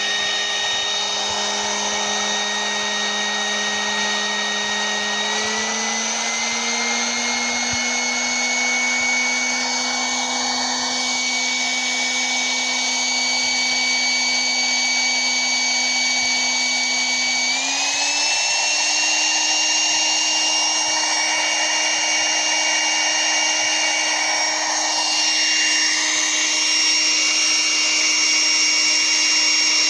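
12-volt drill motor running flat out with a steady whine and a rush of air. The pitch steps up twice, about five seconds in and again about seventeen seconds in.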